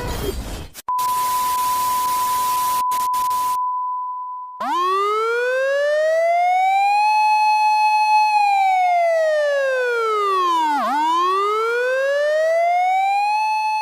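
A steady high beep over a hiss for about four seconds. Then a wailing siren starts, rising in pitch, holding, falling, and rising again in slow cycles of about six seconds.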